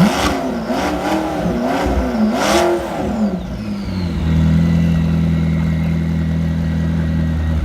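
McLaren P1 GTR's twin-turbo V8 blipped four times in quick succession, each rev rising and falling, then settling to a steady idle after about three seconds. Recorded on a phone.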